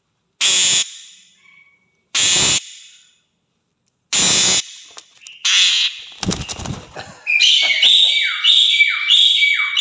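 A starling gives four harsh, rasping calls, then from about seven seconds in breaks into a quick run of whistled notes, each ending in a downward slide, about two a second.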